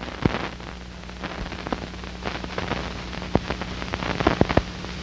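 Crackle and scattered pops of an old optical film soundtrack over steady hiss and a low mains-like hum; no drill or other sound stands out.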